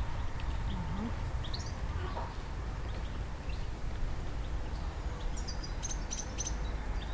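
Small birds chirping in short, high calls, scattered at first and busier from about five seconds in, over a steady low rumble.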